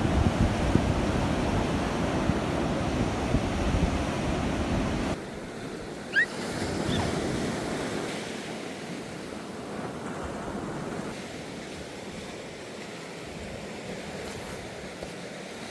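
Sea waves washing on the shore, with wind buffeting the microphone and adding a low rumble. About five seconds in the level drops abruptly to quieter surf. A brief high chirp comes about a second later.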